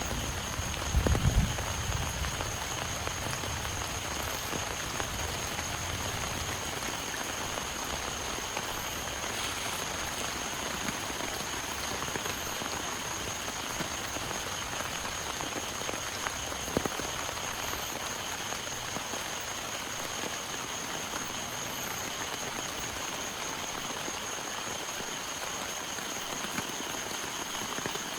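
Heavy rain falling steadily, an even hiss of drops, with a continuous high-pitched drone from an animal chorus above it. A few low thumps in the first two seconds and a single sharp tap about seventeen seconds in.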